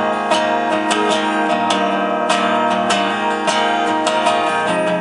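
Acoustic guitar strummed in steady chords, an instrumental passage between sung lines of a song.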